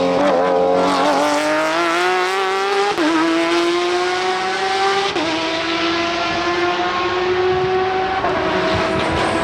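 Race car engine accelerating hard from low revs. The pitch climbs and drops sharply at upshifts about three and five seconds in, then holds fairly steady.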